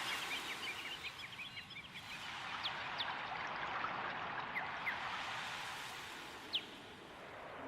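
Running water, such as a stream, with small birds chirping: a burst of quick chirps in the first couple of seconds, then a few single calls.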